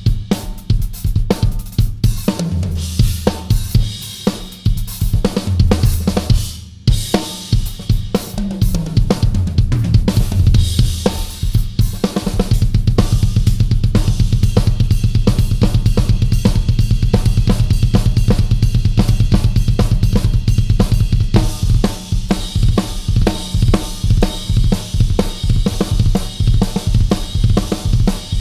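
Yamaha Absolute Hybrid Maple drum kit being played: snare, toms, bass drum, hi-hat and cymbals. There is a short break about seven seconds in. From about twelve seconds a long run of fast, even bass-drum strokes carries on under the kit.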